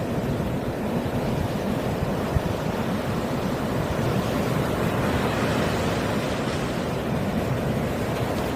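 Winter sea waves washing steadily on the shore, a continuous rushing noise with wind on the microphone. One short click about two and a half seconds in.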